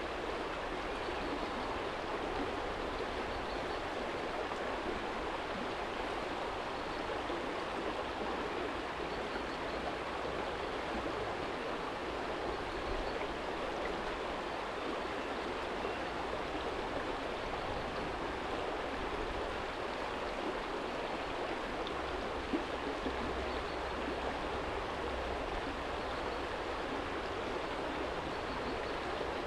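Small stream flowing and babbling over a stony bed, a steady rushing of water.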